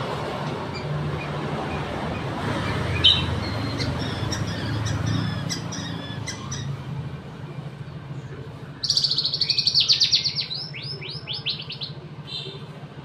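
White-rumped shama singing: scattered short high chirps, then a loud, rapid run of notes about nine seconds in, over a steady low rumble.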